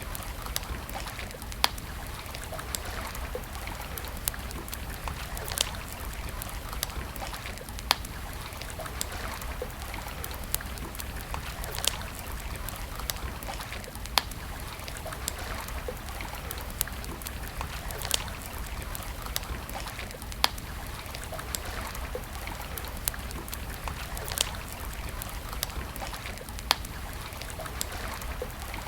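Wood campfire crackling, with sharp single pops every second or two over a steady rushing hiss.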